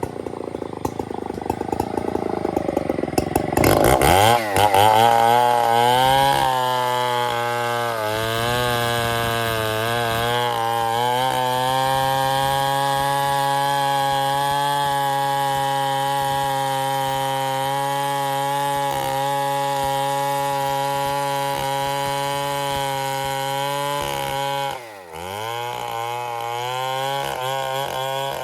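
Stihl MS 070 two-stroke chainsaw revving up from a rough, lower running speed a few seconds in, then holding at high, steady revs. Near the end the revs dip suddenly and briefly, then pick back up.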